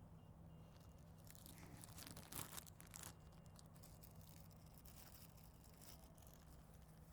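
Small plastic bag being pulled out and handled, crinkling in short bursts, densest between about one and three seconds in.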